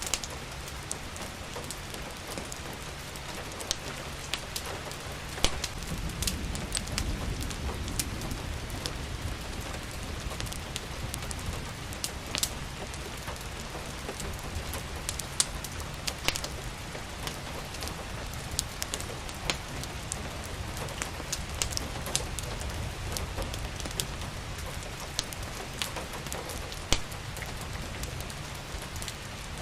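Steady rain with a fireplace crackling, sharp irregular pops and snaps scattered through the rain's hiss. A low rumble swells briefly about six to eight seconds in.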